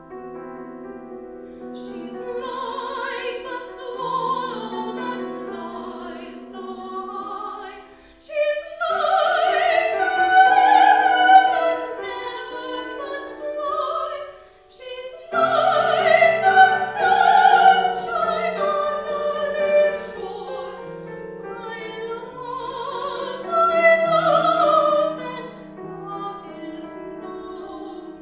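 Classical operatic singing with vibrato over piano accompaniment. The voice swells louder through two long sustained phrases in the middle and softens again near the end.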